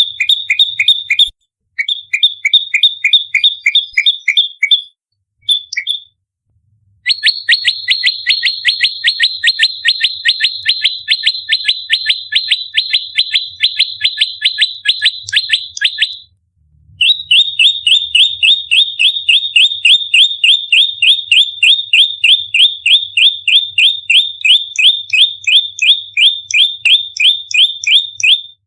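Prenjak lumut giving its rapid, fighting call: fast trains of sharp, down-slurred chip notes, about six a second, in long runs. The runs break off briefly, about a second in, near five seconds, just after six seconds and around sixteen seconds, then carry on.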